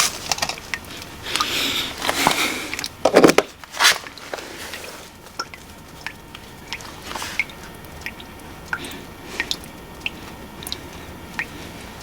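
Scattered clicks and short rustling bursts of close handling noise, the loudest in the first four seconds, sparser after.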